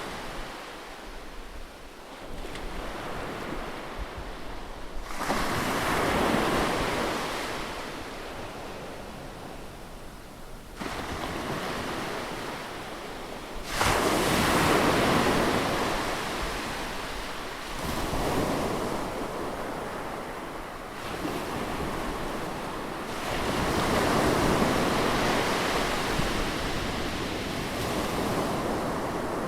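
Ocean surf breaking on a beach: waves crash and wash in as a rushing hiss, one surge every few seconds, each swelling and then fading. The loudest break comes in suddenly about halfway through.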